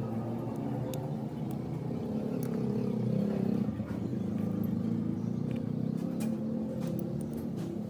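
A motor vehicle engine running steadily, growing a little louder about three seconds in, with a few light clicks over it.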